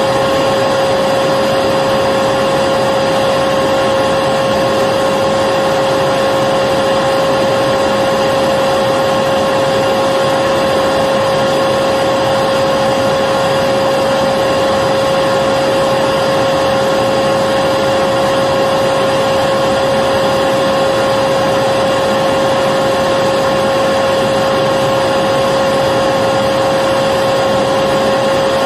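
Electric vacuum cleaner running continuously: a steady, unchanging whirring hiss with a constant whine in it.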